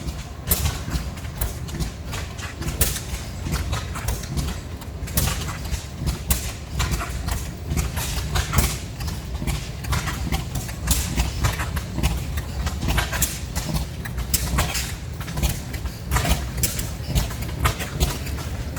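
Several old oil field engines running together: a steady low chugging with many sharp exhaust pops, out of step with each other.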